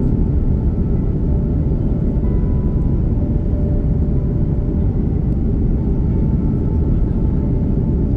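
Steady cabin noise inside an Airbus A330-300 with GE CF6-80 engines: an even, low rumble of engines and airflow, with faint steady whines above it.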